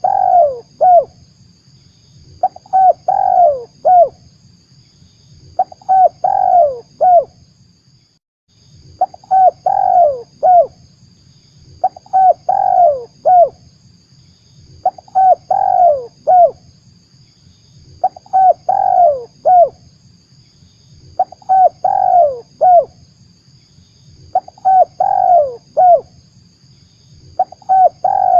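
Spotted dove (tekukur) cooing, a lure call: the same short phrase of a few coos repeated about every three seconds, ten times in all.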